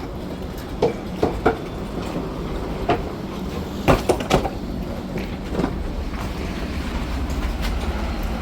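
Loaded truck driving, a steady low engine and road rumble with irregular knocks and rattles from the body over a rough road.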